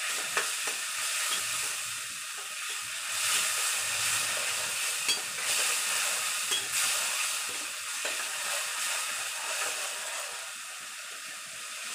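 Onion-tomato masala sizzling in a kadai as the tomatoes cook down, with a few sharp clicks of a spatula against the pan.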